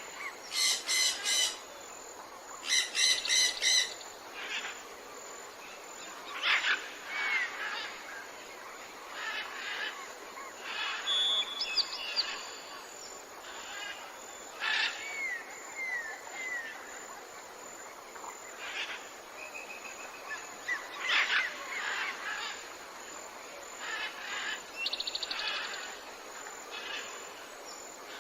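Several forest birds calling: two loud bouts of harsh, rapidly repeated calls in the first four seconds, then scattered chirps, short down-slurred whistles and a brief trill, over a steady background hiss.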